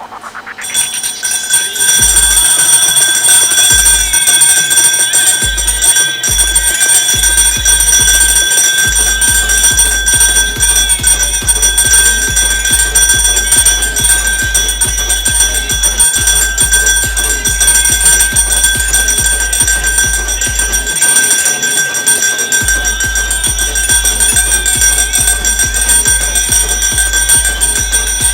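Brass puja hand bell rung rapidly and continuously, its ringing tones held steady over fast repeated strikes, with a low pulsing beat underneath.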